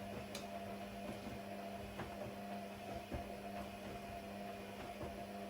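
A steady, low, mechanical or electrical hum with a few faint clicks scattered through it.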